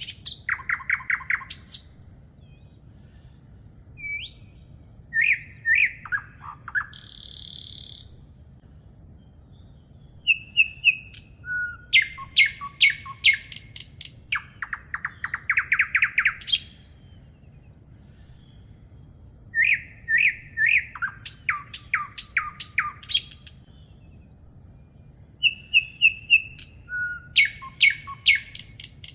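Songbirds singing: bursts of fast trilled notes every few seconds, with scattered short whistles, and one harsh buzzy call about a quarter of the way in.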